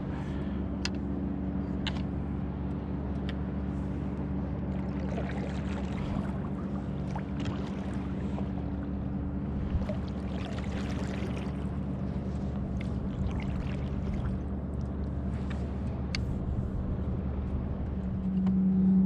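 Steady low drone of a boat motor, several fixed tones held without change, with scattered small clicks and faint water noise; the drone grows louder near the end.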